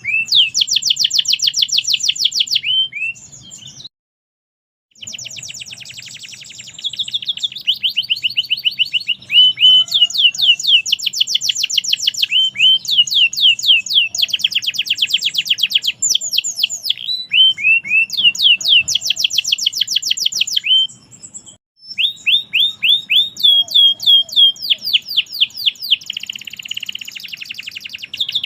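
Domestic canary singing a loud, continuous song of rapid trills, each note a quick downward sweep repeated many times a second. The song breaks off fully for about a second around four seconds in, and again briefly near twenty-two seconds.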